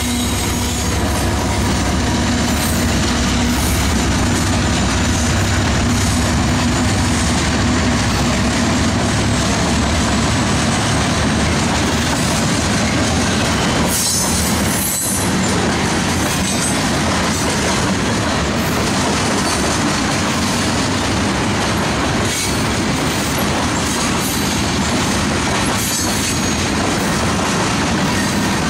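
Freight train of covered hopper cars rolling past at speed: a steady loud rush and rumble of steel wheels on rail, with occasional clacks as wheels pass over rail joints.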